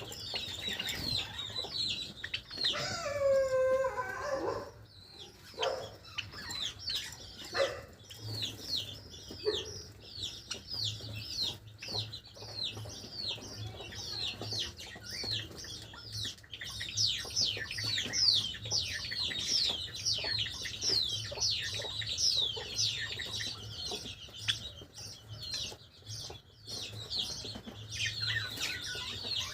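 Java sparrows chirping: a long string of short, high, downward-sliding notes, two or three a second. About three seconds in, a lower falling call sounds twice.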